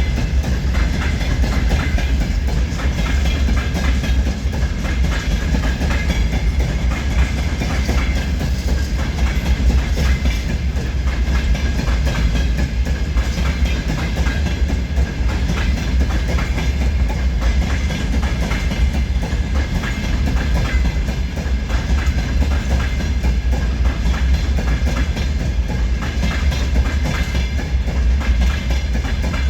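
Freight train wheels clattering on the rails over a steady, heavy rumble, without a break.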